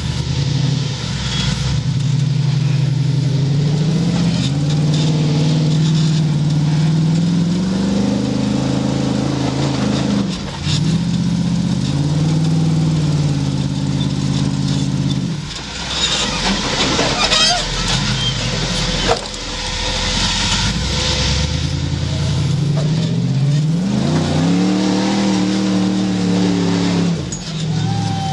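Off-road vehicle engine revving up and easing off in repeated surges, its pitch climbing and dropping. About halfway through there is a stretch where the engine falls back under a rough hiss and scattered knocks.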